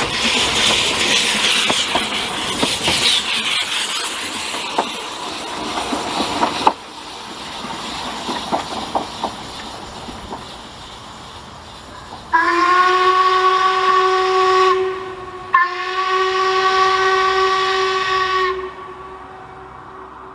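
Steady hissing with scattered clicks that cuts off suddenly about a third of the way in, then two long whistle blasts from a narrow-gauge steam locomotive, the second a little longer than the first.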